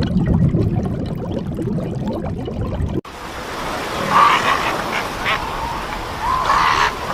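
For about three seconds a low, noisy rumble, then after an abrupt cut, ducks quacking: several short, nasal calls in quick runs.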